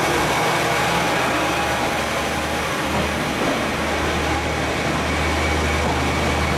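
KiHa 48 diesel railcar running as the train pulls out, a steady low engine hum under a constant haze of running noise.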